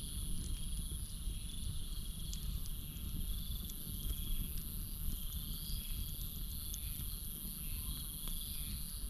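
Campfire crackling with scattered sharp pops over a low rumble, set against a steady high-pitched chorus of crickets with short trills repeating every second or two.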